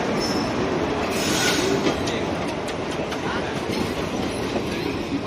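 Passenger express train running on the rails, a steady loud noise of the train heard from inside the coach.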